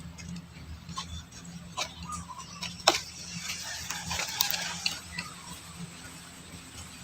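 Society finches moving about in the nest: scattered sharp clicks and taps, with the loudest about three seconds in, then a short stretch of rustling, and a few faint short chirps. A steady low hum lies underneath.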